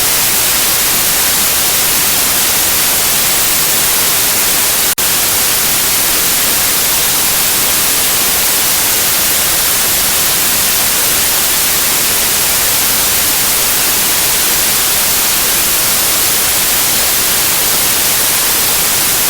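Steady white noise played for a baby's sleep: an even hiss across the whole range, with a momentary dropout about five seconds in.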